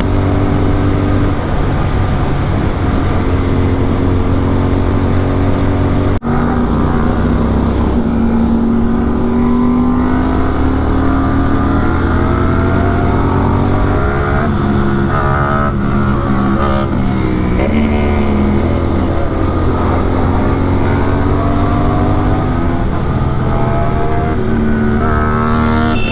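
Kawasaki Z900 inline-four motorcycle engine with an SC-Project exhaust running loud and steady at highway speed, its pitch slowly rising and falling as the revs change, with a brief break about six seconds in.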